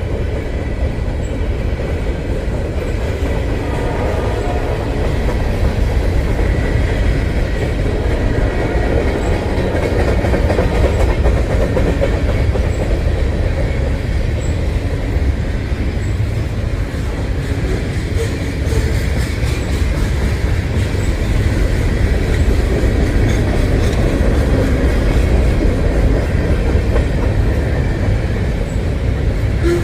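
CSX freight train rolling across a railroad trestle, a loud, steady rumble of cars and wheels on the rails.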